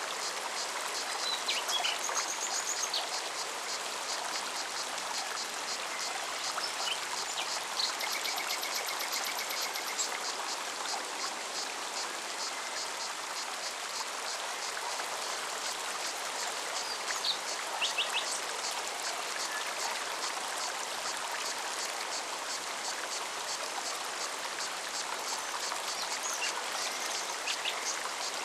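Forest mountain stream running steadily over stones, with a cicada singing in rapid, regular pulses throughout and a few short bird calls and a brief trill here and there.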